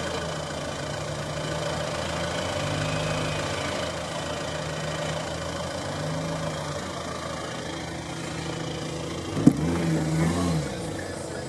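Hyundai Santa Fe's 2.0-litre turbo diesel engine idling, revved up briefly three times, the pitch rising and falling each time. A single sharp click comes just before the last rev.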